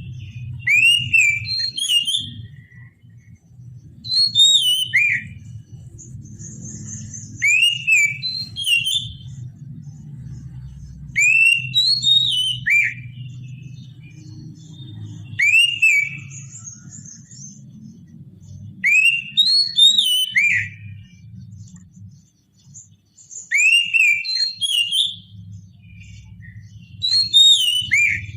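Oriental magpie-robin (kacer) singing the same short phrase of clear, sliding whistled notes about every four seconds, with a steady low hum underneath.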